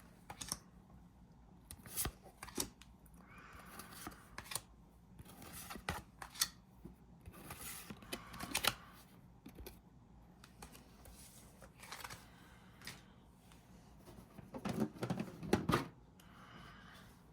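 Packaging of a Pokémon card tin being worked open by hand: irregular sharp clicks and short rustling, crinkling sounds of plastic wrap and packaging, with a cluster of louder handling noises near the end.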